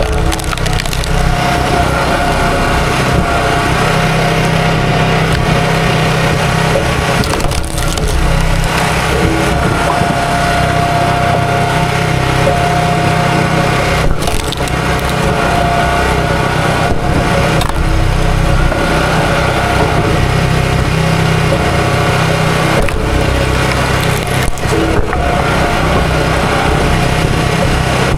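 Chainsaw running under load as it cuts through a wooden stump, its engine note steady with a few brief dips.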